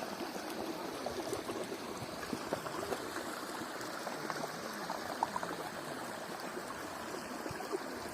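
Running water, flowing steadily with many small splashes.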